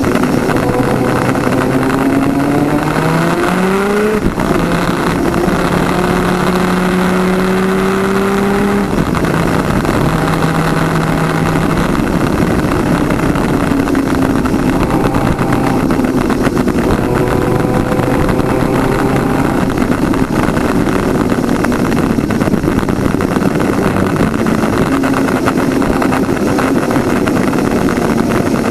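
Twin-cylinder 250cc two-stroke superkart engine at racing speed, heard onboard over heavy wind noise. Its pitch climbs until about four seconds in, holds high until about nine seconds in, then drops and rises and falls with the throttle through the rest.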